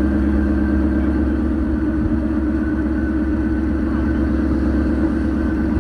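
2018 Ford Mustang GT's 5.0-litre V8 running at a steady speed through its exhaust, with no revving in this stretch.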